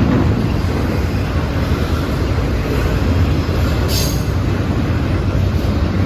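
Train rolling past close by: a loud, steady rumble of cars on the rails, with a brief high-pitched sound about four seconds in.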